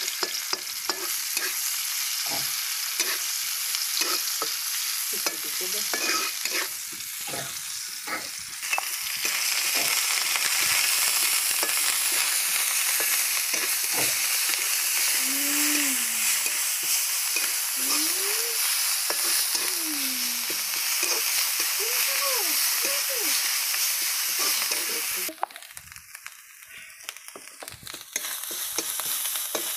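Snail meat frying and sizzling in oil in a steel wok while a metal spatula stirs and scrapes against the pan. The sizzle drops away briefly near the end.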